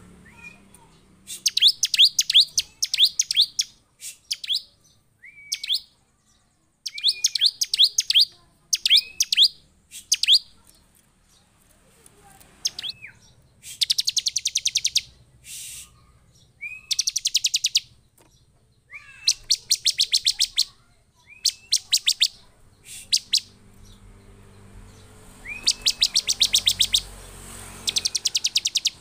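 Bar-winged prinia (ciblek) calling: bursts of rapid, sharp high notes, each burst lasting about a second, repeated every couple of seconds, with short single rising chirps in between.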